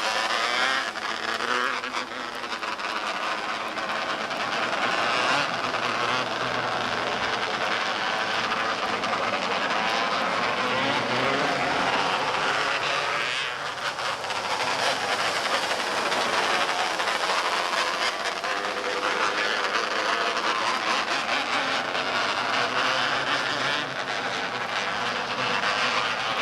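Several small race-car engines (quarter midgets or mini sprints) buzzing at high revs as a pack laps the track, swelling and fading every several seconds as the cars come past and move away.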